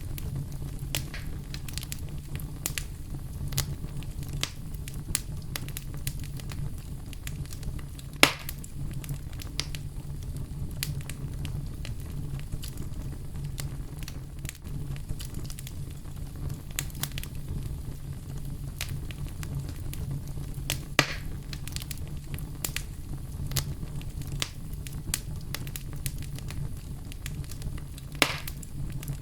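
Campfire burning with a steady low rumble and constant small crackles, and three louder pops from the burning wood, about 8, 21 and 28 seconds in.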